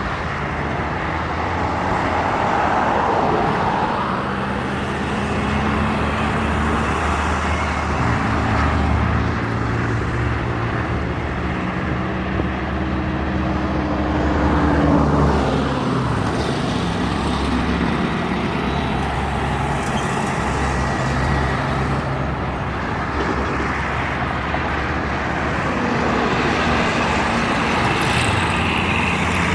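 Heavy trucks and other highway traffic passing steadily, with deep engine drones and tyre noise. The engine pitch falls as vehicles go by.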